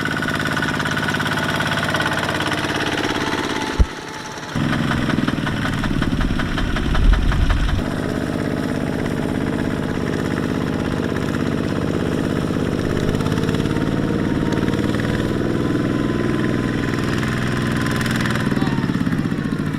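Small Kubota tractor engine running steadily. About four seconds in a sharp click and a short dip come, then the engine again, with a heavier low rumble for a couple of seconds before it evens out.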